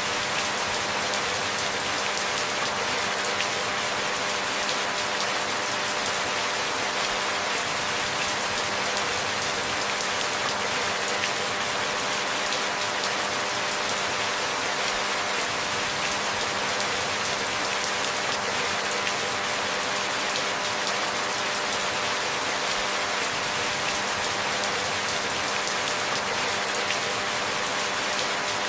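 Steady, even rainfall, a constant hiss of drops with no thunder and no change in intensity, with a few faint steady tones underneath.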